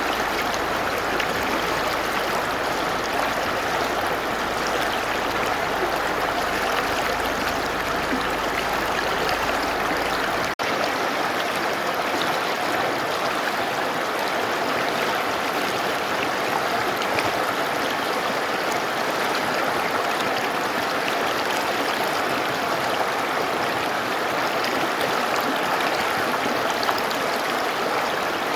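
Mountain river rushing steadily, an even wash of water noise. About ten seconds in there is a momentary dip, and the deep low rumble drops away after it.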